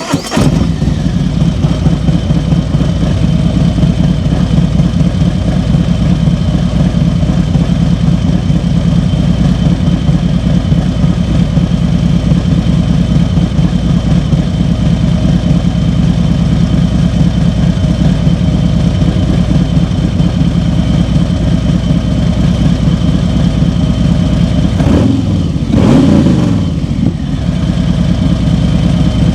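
Harley-Davidson Street Glide's Milwaukee-Eight 107 V-twin idling steadily through an SP Concepts full-length Turnpike exhaust, just after starting. Near the end, one brief throttle blip raises and drops the revs.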